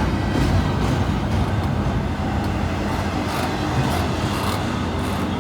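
Freight train rolling past: a steady low rumble of wheels on rail, with scattered sharp clicks from the wheels.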